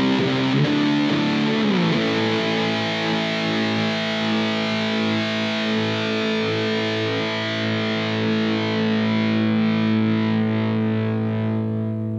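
PRS (Paul Reed Smith) electric guitar played with distortion: a few moving notes, then a chord about two seconds in that is held and left ringing, its brightness slowly fading, until it is cut off near the end.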